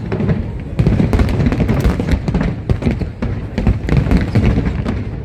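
Aerial fireworks bursting in rapid, overlapping bangs and crackles, growing denser about a second in.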